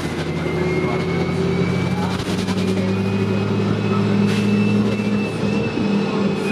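Dennis Dart single-decker bus under way: the engine hums steadily, with a thin high whine from the drivetrain above it. The engine note shifts about two seconds in.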